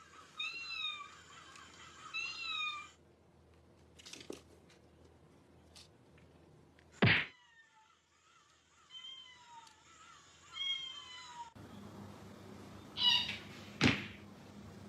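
Cats meowing across several short clips: a few rising-and-falling meows in the first three seconds, a sudden loud thunk about seven seconds in, then more short meows, and louder calls near the end.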